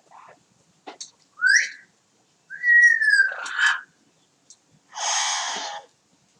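Double yellow-headed Amazon parrot whistling: a short rising whistle, then a longer whistle that slides slightly down, followed near the end by a harsh squawk lasting under a second.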